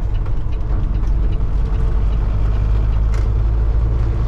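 Steady low drone of a semi truck's diesel engine and road noise, heard from inside the cab while driving, with one brief click about three seconds in.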